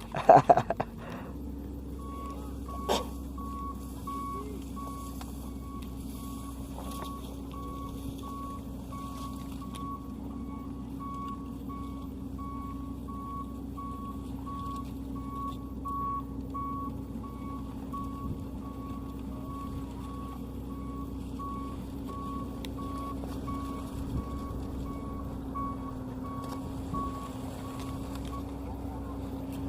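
Maxxi NDR85 combine harvester with its engine running; the engine note rises about a second in and then holds steady. Its reversing alarm beeps in an even repeating pattern, which signals that the machine is backing up. A few sharp knocks come right at the start.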